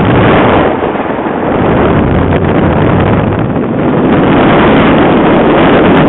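Heavy wind buffeting the microphone, a loud rumbling roar that swells and dips with the gusts.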